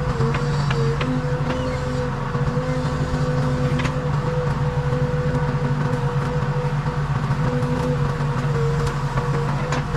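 Diesel engine of a Case 580 Super K backhoe loader running steadily under work, a low rumble with a steady higher whine over it and a few light clicks and knocks.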